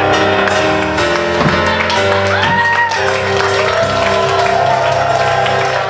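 Live band music playing steadily, with held notes and a few sliding pitches in the middle.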